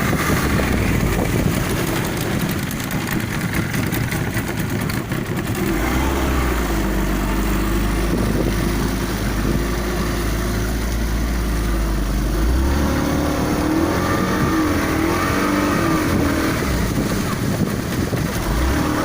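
Motorboat engine running, with a heavy low rumble from about six to twelve seconds in.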